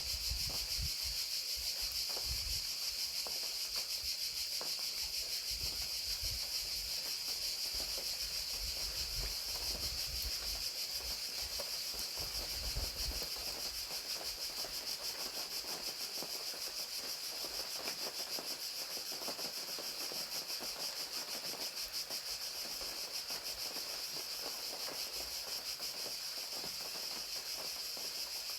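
A dense chorus of crickets trilling steadily and high-pitched, over an even hiss of rain. Irregular low rumbles and bumps come and go in the first half, then fade.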